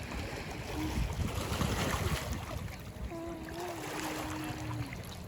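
Wind rumbling on the microphone over the wash of lake water, with a faint held, slightly wavering tone about three seconds in.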